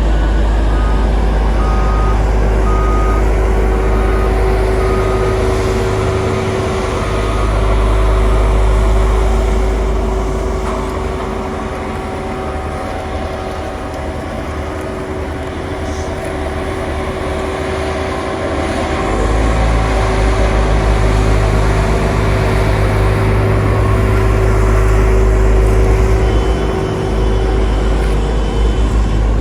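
Diesel engines of heavy road-construction machinery running with a steady rumble, swelling and easing. A reversing alarm beeps repeatedly through the first few seconds, and a higher-pitched beeping comes in near the end.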